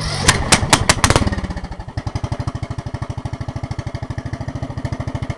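Craftsman riding lawn tractor's small engine being started: a few sharp clicks or pops as it catches, then it settles into a steady rapid firing beat.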